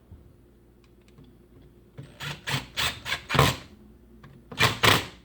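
Sharp clacks and knocks of hard parts being handled and fitted together while reassembling a reciprocating saw's gear housing: a quick run of about five, then two louder ones near the end.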